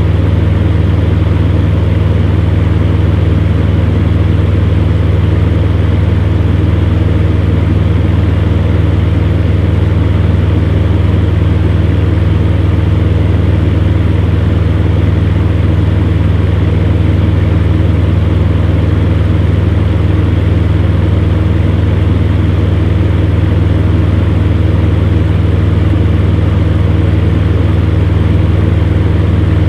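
Electric fan heater running steadily: a constant low hum with an even airy rush over it.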